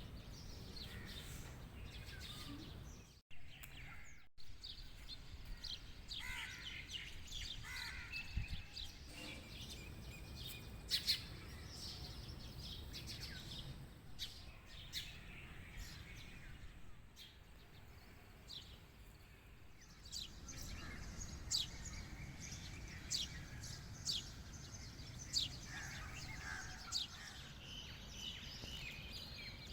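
Birds chirping and calling over a steady outdoor background noise. The sound cuts out briefly twice a few seconds in.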